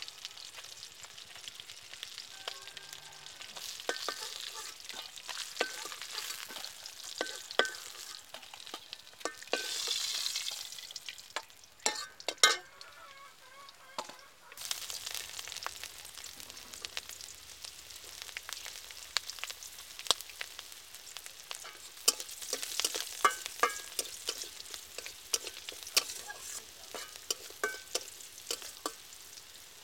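Pieces of fish and then potato frying in hot oil in a steel wok, a steady sizzle with frequent clinks and scrapes of a metal spatula against the pan. The sizzle dips briefly about halfway through.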